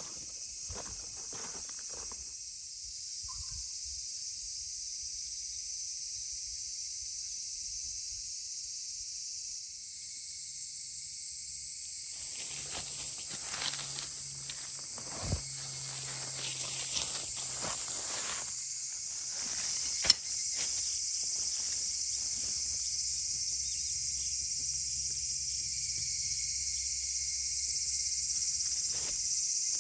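Wood fire crackling in a fire pit, with scattered small snaps and a sharp pop about 15 s and 20 s in, over a steady high chorus of crickets.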